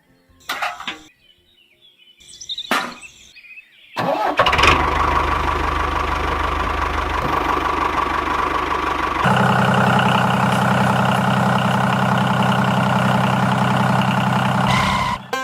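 A few short knocks, then a small engine starts about four seconds in and runs steadily. Its note becomes deeper and fuller about nine seconds in, and it cuts off near the end.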